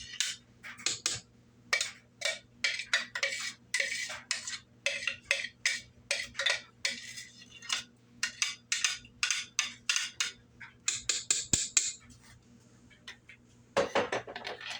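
A spoon clinking and scraping against a container in quick repeated strokes, about three a second, as a dry seasoning blend of salt, pepper and garlic powder is mixed, with a brief rapid rattle about eleven seconds in.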